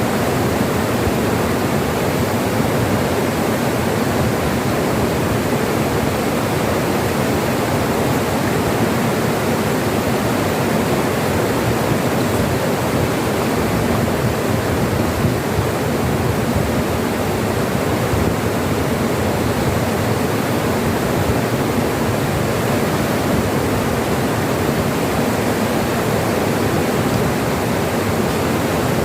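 Flowing river water rushing steadily and evenly, with no change in level.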